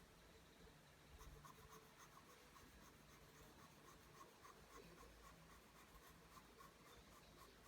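Pencil drawing lines on paper: faint, quick, repeated scratching strokes.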